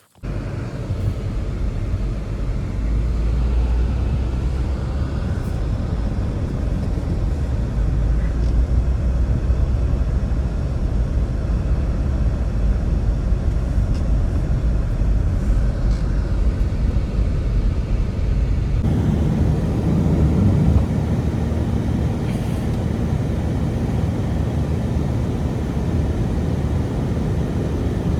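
Strong storm wind blowing steadily, a loud, deep rumbling noise. Its sound changes abruptly about two-thirds of the way through.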